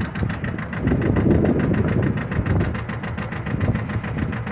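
John Deere 650 compact tractor's diesel engine running steadily at low speed, with an even firing pulse, a little louder for a second or so about a second in.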